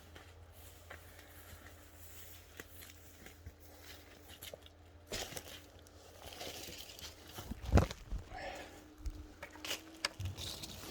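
Rustling and cracking of brush and twigs, faint for the first half, then busier, with one heavy thump about eight seconds in.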